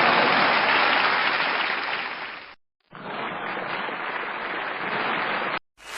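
Crowd applause, one recording fading out about two and a half seconds in, then after a brief silence a second, quieter and duller applause recording that cuts off suddenly near the end.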